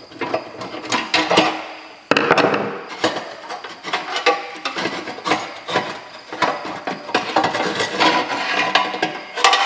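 Sheet-metal burner parts of an RV furnace being handled and turned over by hand: a steady run of metallic clinks, knocks and scrapes.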